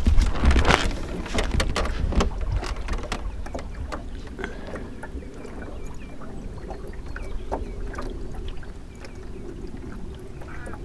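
Small sailing dinghy under way: water running along the hull with frequent small knocks and taps from the boat and its gear. Wind buffets the microphone in the first couple of seconds, then it settles, and a few faint bird chirps come through.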